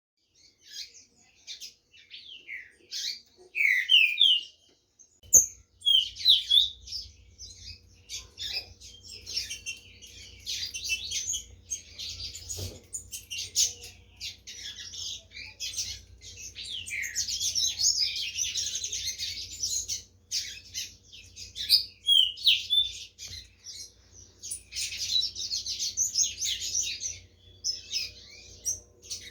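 Green-winged saltators (trinca-ferro) singing against each other in a song duel: dense, repeated phrases of sliding whistled notes, one after another with short gaps. A low steady hum sets in about five seconds in.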